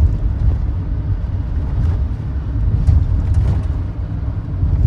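Steady low rumble of a tour bus's engine and road noise, heard inside the cabin in a traffic jam, with a few faint knocks.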